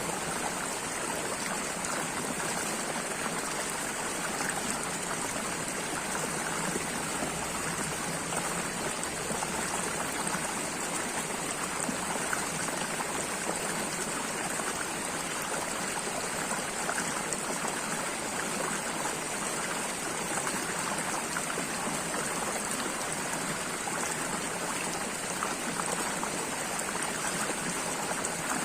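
Running water from a stream or brook, a steady continuous burble and rush without breaks.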